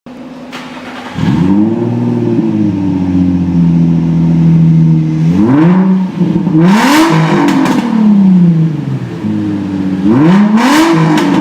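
Nissan 350Z's 3.5-litre V6 through a prototype chambered exhaust, revved in place. It runs low for about a second, then climbs and holds a steady higher rpm for a few seconds, followed by three quick revs, each falling back.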